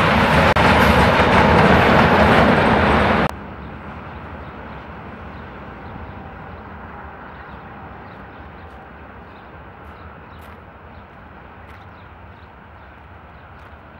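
Diesel-electric locomotive with a Sulzer engine pushing at the rear of a freight train, passing close by with its engine running loud over the wagons' wheel noise on the rails. About three seconds in the sound cuts abruptly to the train faint in the distance, slowly fading away.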